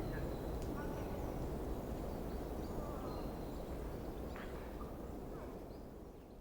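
Forest ambience: small birds chirping and giving short whistles over a steady rushing background, fading out near the end.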